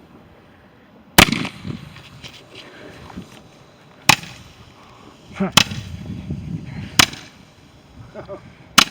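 Fireworks exploding: five sharp bangs a second or two apart, the first about a second in, with softer pops and crackle trailing between them.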